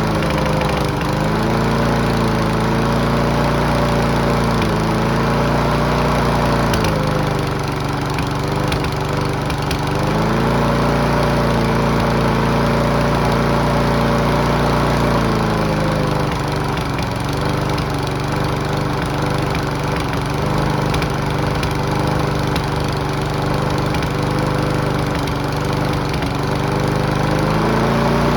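Mountfield V35 petrol lawnmower engine running, its speed dropping and rising again several times. It runs at a lower speed for a few seconds about a third of the way in and through most of the second half, and picks up again near the end.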